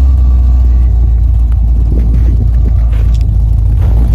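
Cadillac CTS-V's V8 engine idling with a deep, steady rumble, just after being started in freezing cold.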